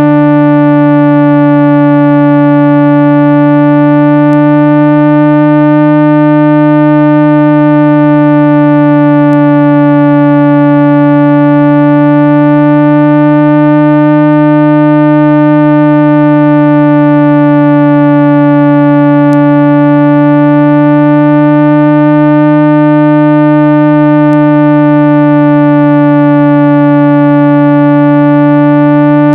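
A loud, steady 165 Hz cleaning tone with a stack of overtones above it that slowly swell and fade. It is played through a device's speaker to vibrate dust and debris out of the grille.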